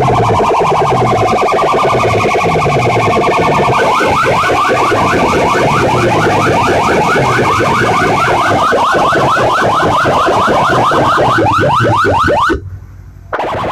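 Loud electronic siren-like alarm effect blaring from a competition sound system's loudspeakers: rapid repeating rising sweeps over a steady high tone and a repeating low falling pulse. It cuts out briefly near the end and comes back.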